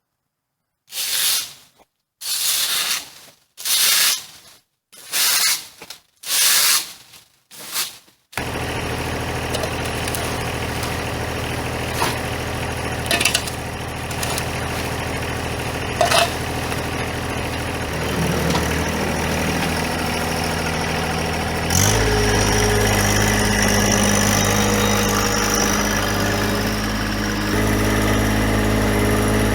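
About six short bursts of noise with silence between them. Then a tractor engine runs steadily, stepping up in speed and loudness about 22 seconds in and again a few seconds before the end.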